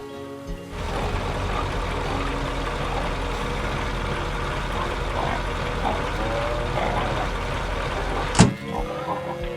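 Tractor engine running steadily with a low drone. About eight and a half seconds in, a loud sudden hit cuts it off.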